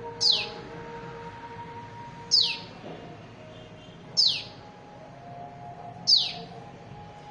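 A tiny bird chick calling: four sharp, high chirps, each sliding quickly downward in pitch, repeated evenly about every two seconds.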